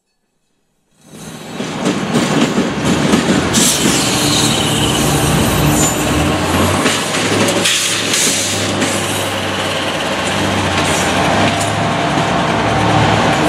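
BNSF GE diesel freight locomotives passing close by, engines running with a steady low drone while the wheels clatter over the rails. The sound starts abruptly about a second in.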